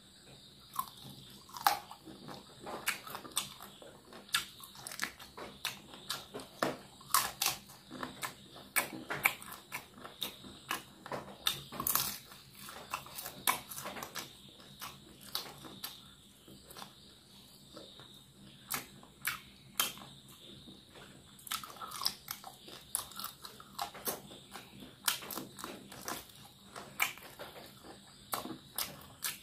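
Close-up biting and chewing of cooked chicken feet and leg pieces: irregular sharp crunches and clicks, sometimes several a second, between quieter chewing.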